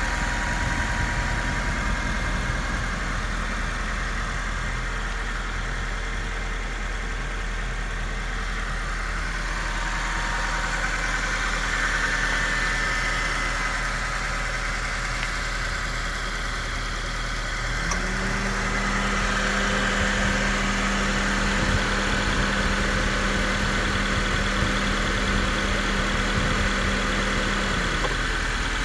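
2002 Acura RSX Type-S's 2.0-litre DOHC i-VTEC four-cylinder engine idling steadily. A steady hum joins in about two-thirds of the way through and stops shortly before the end.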